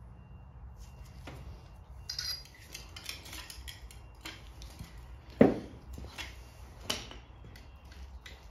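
Metal tools and engine parts clinking and knocking, a string of separate clinks with the loudest knock about halfway through.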